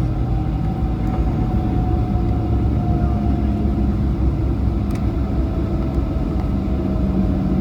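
Cabin noise of a Boeing 737-800 rolling on the ground just after landing: a steady low rumble from the wheels and CFM56-7B engines, with a faint whine slowly falling in pitch.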